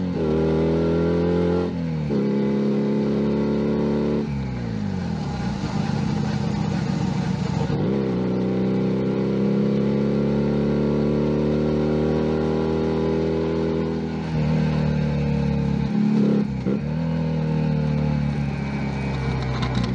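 Junak M11 Cafe 125 cc motorcycle engine pulling up through the gears. The pitch climbs and drops sharply at each shift, sinks slowly as the bike rolls off, then climbs again as it accelerates.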